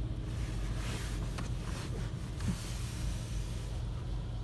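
WashTec Soft Care 2 Pro Touchless automatic car wash working over the car, heard from inside the cabin: a steady low machine hum with a hiss across the top that fades out near the end.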